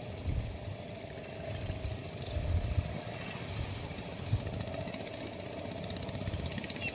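An engine running steadily, with uneven low rumbling underneath.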